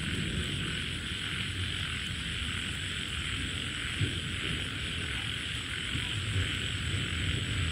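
Wind buffeting the microphone in a gusty low rumble, over a steady high hiss.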